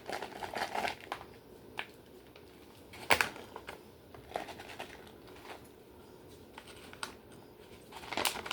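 Plastic packaging crinkling and rustling in short bursts as it is handled, with a sharp knock about three seconds in.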